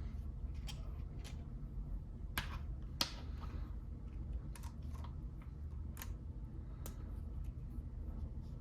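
Lego plastic pieces clicking against each other as they are handled and snapped together: about eight scattered sharp clicks, the loudest about three seconds in, over a steady low hum.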